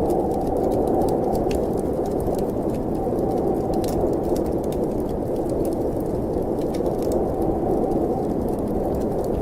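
Snowstorm ambience: a steady, muffled rush of wind, with the scattered sharp crackles of a wood fire burning in a fireplace.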